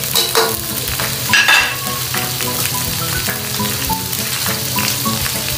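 Squid sizzling in hot oil and sauce in a wok as it is stir-fried, with a spatula scraping and knocking against the pan in the first couple of seconds.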